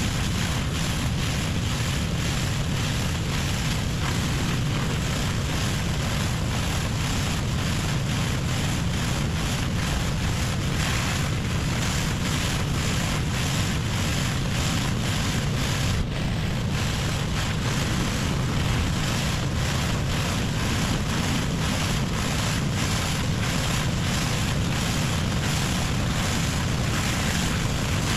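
Pressure washer running: a steady, unbroken drone from the machine with the hiss of high-pressure water spraying a hard surface.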